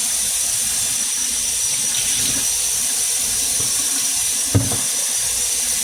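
Water running steadily from a kitchen faucet into the sink, with a single short knock about four and a half seconds in.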